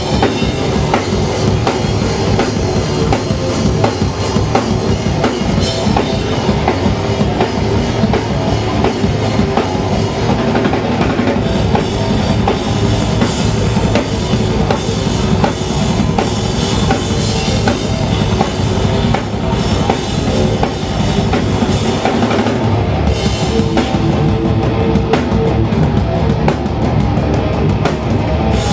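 Hardcore punk band playing live: fast drums and distorted guitar and bass, loud and dense.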